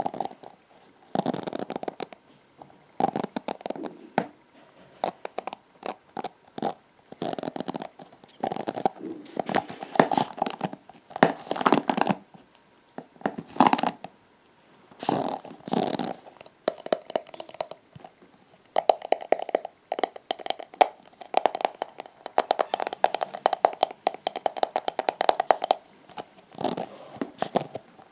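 Hairbrush bristles scraped and stroked close to the microphone in repeated strokes. In the second half they are flicked in a long run of rapid ticks.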